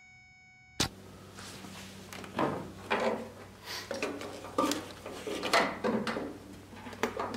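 Plastic taillight housing and wiring connector being handled and pushed into a pickup's tail-light pocket: irregular clicks, knocks and plastic rubbing over a low steady hum. Before them, a steady electronic tone cuts off abruptly about a second in.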